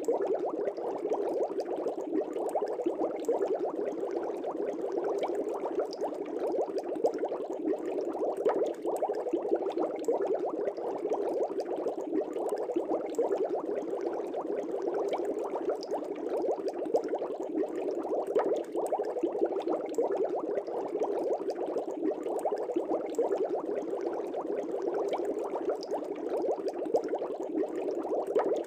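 Air bubbles in a fish tank, bubbling steadily as a dense stream of small pops in the water.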